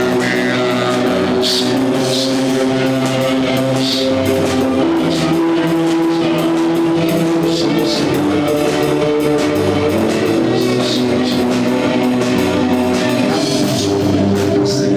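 Rock band music with a drum kit: sustained droning chords shifting in pitch, with cymbal hits now and then.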